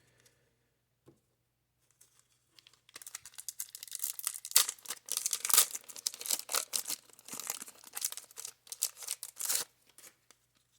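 Wax pack of 1990 Score baseball cards being torn open and its wrapper crinkled: a dense run of sharp crackles starting about three seconds in and stopping shortly before the end.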